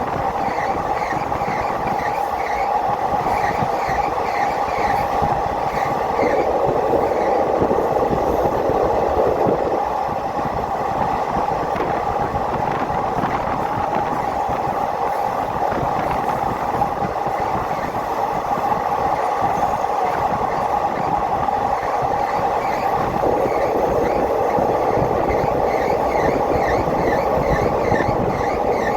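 A moving passenger train running along the track, a steady rumble of wheels on rail with a faint, regularly repeating chirp near the beginning and again near the end.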